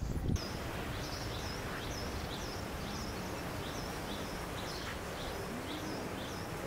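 A small bird chirping over and over, about twice a second, over a steady outdoor background hiss.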